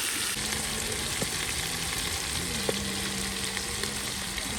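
Food frying in hot oil in a cooking pot over a wood fire: a steady sizzle with a few sharp pops.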